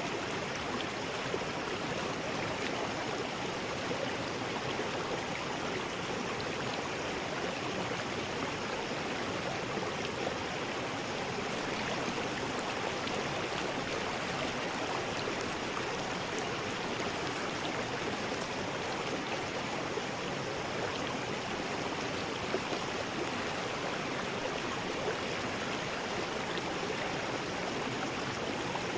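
River rapids: water rushing steadily over rocks in a continuous, even roar of white noise, with small splashes here and there.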